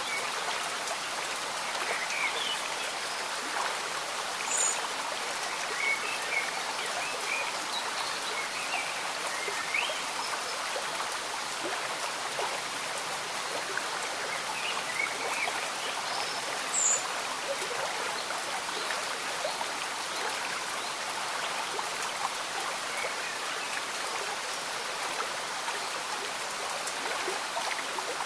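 A slow-moving stream bubbling gently under steady rain, with small water plinks scattered throughout.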